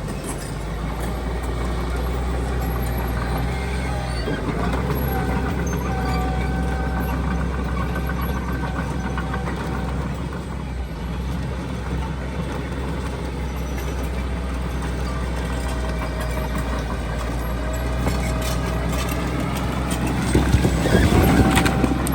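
Diesel engines of heavy earthmoving machinery running steadily, with a louder noisy burst near the end.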